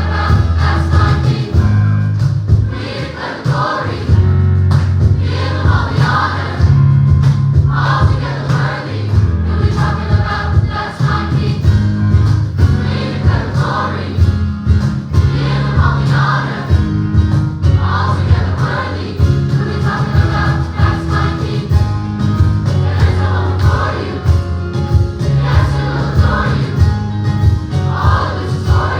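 A choir singing a gospel song over a live band, with a steady bass line and a driving beat.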